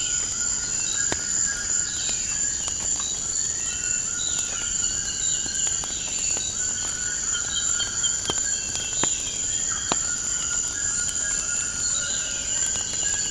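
Nature-and-fireplace ambience: a steady high insect trill, with birds calling in repeated short falling phrases and chirps, and scattered sharp pops of a crackling wood fire.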